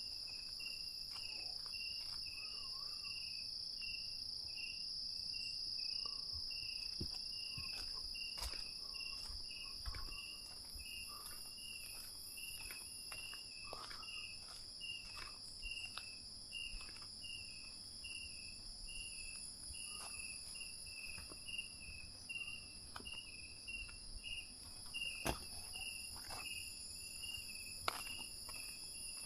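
Night insects calling: a steady high-pitched trill with a regular chirp about twice a second over it. Scattered faint clicks and rustles come through now and then, with a sharper click about 25 seconds in and another about 28 seconds in.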